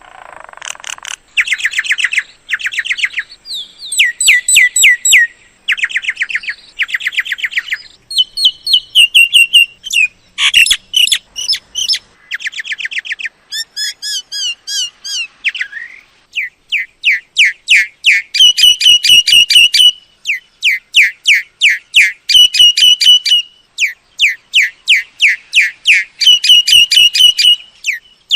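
Myna calling: series after series of rapid, sharp, repeated notes, each run lasting a second or two, almost without pause.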